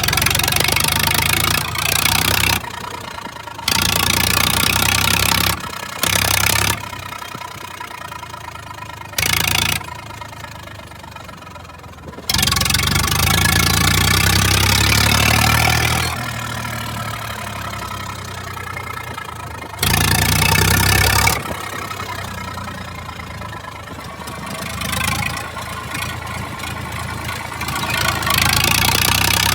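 Massey Ferguson 1035 DI tractor's three-cylinder diesel engine running with its silencer removed, open exhaust. It is loud, surging in repeated bursts of throttle, the longest lasting about four seconds, and dropping back to a lower, steadier run between them.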